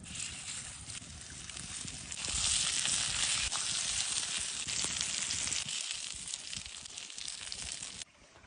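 Food sizzling and frying in a hot pan, a dense crackling hiss that grows louder about two seconds in and cuts off suddenly near the end.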